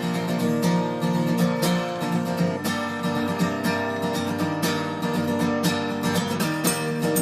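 Intro music: strummed acoustic guitar with a steady rhythm.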